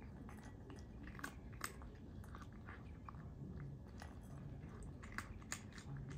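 A cat chewing snacks, a string of small, irregular clicks and crunches, a few sharper than the rest.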